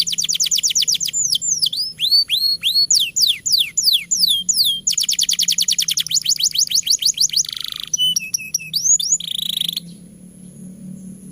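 Domestic canary singing a long, loud song: fast trills of short falling notes, a run of slower sweeping whistles, another fast trill, then a few buzzy and short notes before the song stops near the end.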